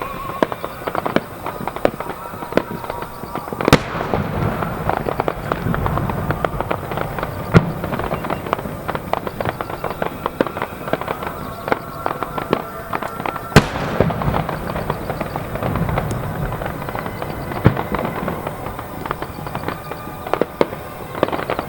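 Aerial fireworks display: dense crackling bursts throughout, with two big shells bursting loudly about four and fourteen seconds in, each followed by a low rumble.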